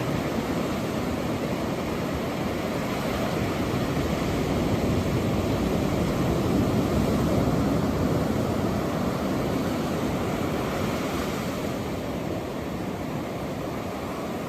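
Ocean surf washing continuously, a steady rush that swells slowly to a peak about halfway through and then eases off.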